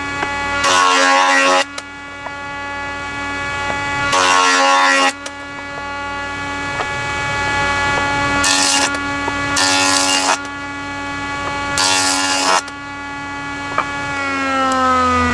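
A woodworking power tool's motor running steadily while oak boards are cut, with five short bursts of cutting noise a few seconds apart. Near the end the motor is switched off and winds down, its hum falling in pitch.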